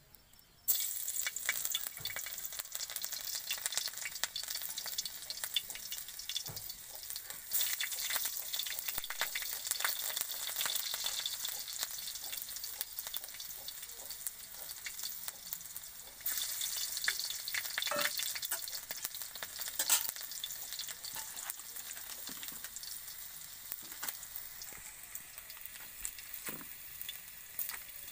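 Food sizzling in hot oil in an iron kadai, a steady hiss that starts suddenly about a second in, with a few sharp pops through it.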